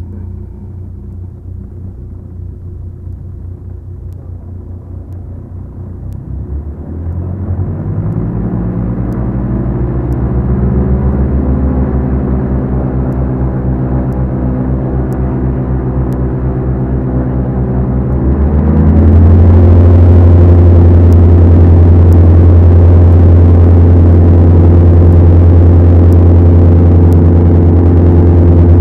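Twin four-cylinder Lycoming engines of a Beechcraft Duchess running in a steady drone. Their pitch and loudness rise about seven seconds in, then jump again more sharply about nineteen seconds in as power is brought up, and hold there.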